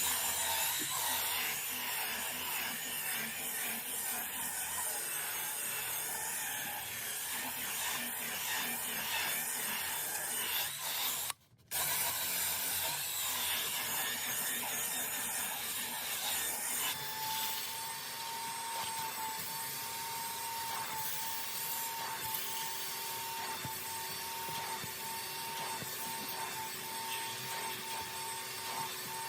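Scrubbing and rubbing noise of seat upholstery being cleaned, broken by a brief cut about eleven seconds in. About seventeen seconds in, a machine motor starts up and runs with a steady whine beneath the scrubbing.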